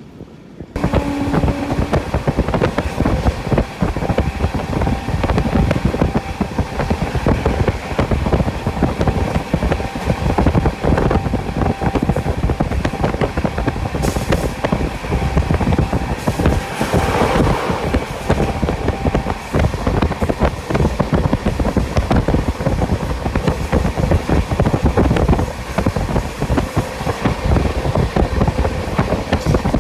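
Express train running at speed: the wheels clatter rapidly and continuously over the rail joints, under steady rushing noise. It starts abruptly about a second in.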